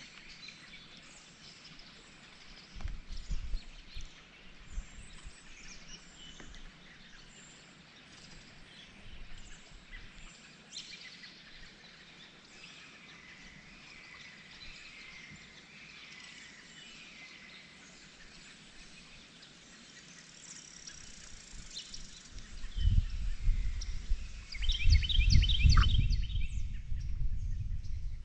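Birds calling outdoors: scattered high chirps and short falling whistles, with a quick run of repeated chirps near the end. From about 23 s a loud low rumble sets in and lasts to the end.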